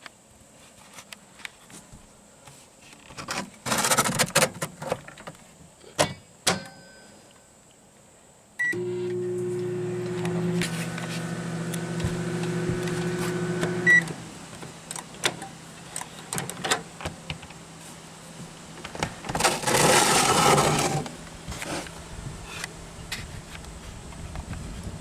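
Microwave oven beeps and starts, its humming drone running steadily for about five seconds before another beep and it stops, leaving a fainter hum. Knocks and a rustle of handling come before it starts and again later.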